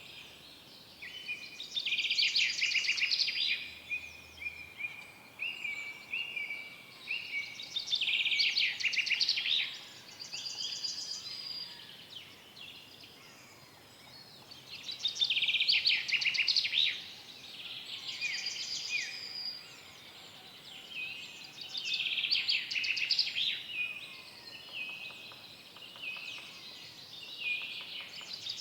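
Forest songbirds singing: a short, fast trilled song phrase of about two seconds repeats roughly every six seconds, with quieter high chirps between the phrases.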